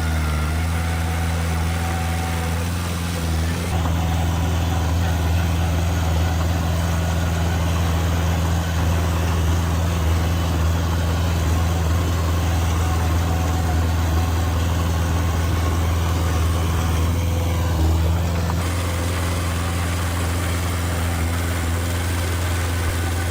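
Heavy diesel engine of earthmoving machinery running steadily at a constant, low speed.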